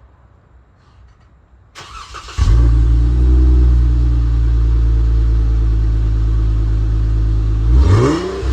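2018 Jeep Wrangler Unlimited Sport engine cranked by the starter, catching after about half a second and settling into a steady idle heard through the exhaust. One short rev, rising and falling, comes near the end.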